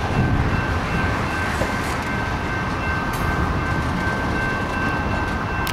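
Freight train cars rolling over the rails, a steady low rumble of wheels on track with a thin, steady high-pitched tone above it, as the tail end of the train passes.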